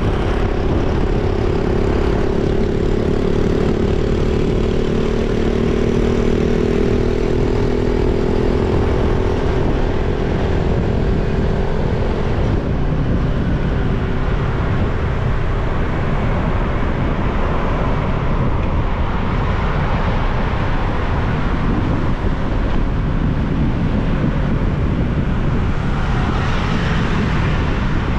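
Motorbike ride: steady wind rumble on the microphone, with an engine drone that slowly falls in pitch and fades over the first ten seconds or so.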